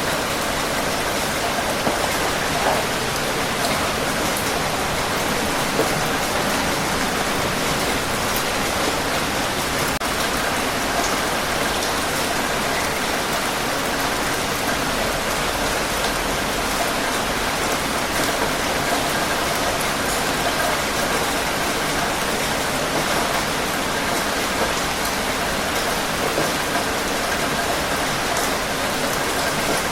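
Steady rain falling on a surface, an even dense hiss of drops with faint scattered pattering, no let-up.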